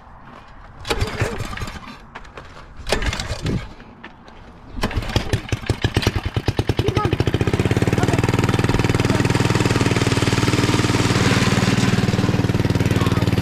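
Small engine starting: two short bursts, then it catches about five seconds in, its firing speeds up over a couple of seconds and it settles into steady running.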